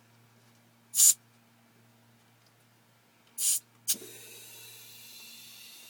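Truck air-ride seat's valve letting out air: a short, loud hiss about a second in, a second hiss about three and a half seconds in followed by a sharp knock, then a steady, fainter hiss of air.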